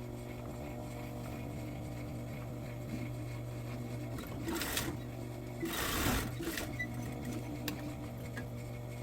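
Sewing machine running steadily, stitching a dart into the waist of a pair of slacks to take it in. A brief rustling noise comes about six seconds in.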